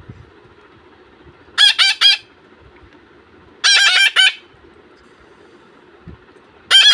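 Young parakeet chicks, about a month old, giving loud, harsh calls in three bursts of three or four quick notes each, about every two seconds: hungry chicks calling at feeding time.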